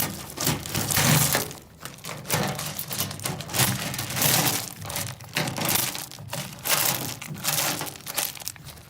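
Landscaping rocks crunching and shifting in a run of irregular scrapes and knocks.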